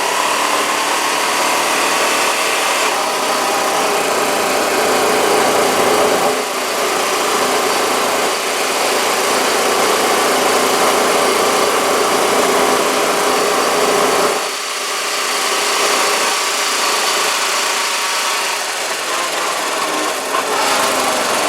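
Four-wheeler (ATV) engine running as it is ridden, a steady drone that dips briefly twice, about six and fourteen seconds in.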